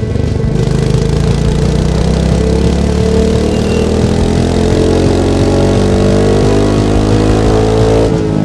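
Royal Enfield Meteor 350's single-cylinder engine and exhaust under acceleration, its pitch rising steadily for several seconds, then dropping sharply near the end and starting to climb again.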